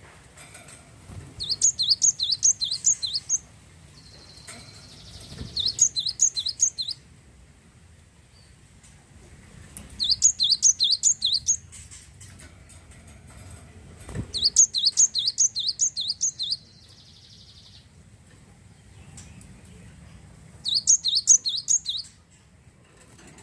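Glatik wingko singing: five bursts of quick, high, sharp repeated notes, each burst lasting one to two seconds, with short pauses between them.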